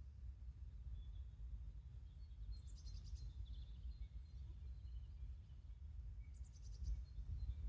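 Small birds chirping in two short, high, rapid trills, one a little under three seconds in and one near the end, with scattered faint chirps between, over a steady low background rumble.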